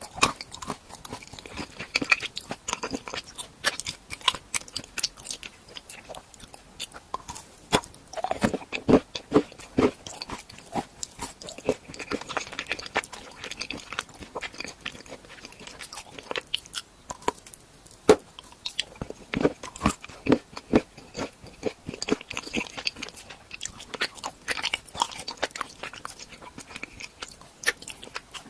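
Crunching bites and chewing of crisp edible novelty food, with clusters of sharp crackles separated by short quieter stretches.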